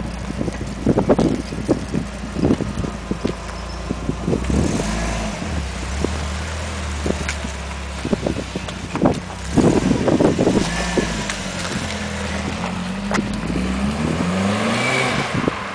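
Audi TT Quattro engine running through an aftermarket dual exhaust system, idling with a deep steady note and taken through short revs, the engine pitch rising and falling near the end. Irregular sharp bursts of noise break in over the engine, loudest in the first few seconds and again around the middle.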